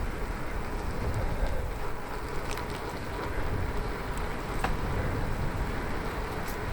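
Wind rushing over the microphones and bicycle tyres rolling on the road as the bike is ridden, with a few light ticks along the way.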